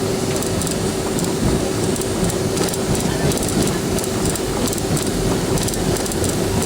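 Cabin noise of an Avro RJ-85 rolling on the ground: the four turbofan engines give a steady hum while the wheels rumble over the pavement, with scattered light clicks and knocks.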